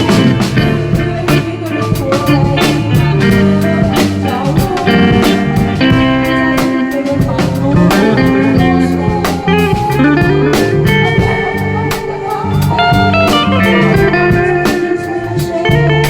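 A live band of electric guitar, drum kit, bass and keyboard playing an instrumental passage of a Mandarin pop ballad, with a guitar line carrying the melody over a steady drum beat and no vocals.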